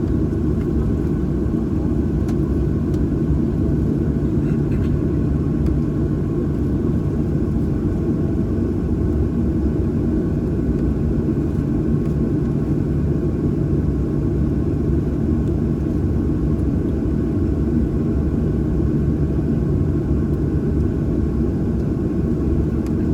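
Cabin noise inside a Boeing 737-800: a steady low rumble of its CFM56 engines running at low ground power, with a few faint steady tones, heard from a seat behind the wing.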